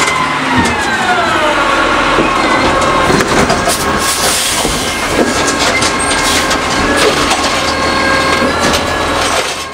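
Curbtender garbage truck working: an engine or hydraulic whine falls in pitch over the first couple of seconds, then the truck runs on with dense clattering and repeated knocks. The sound fades out at the very end.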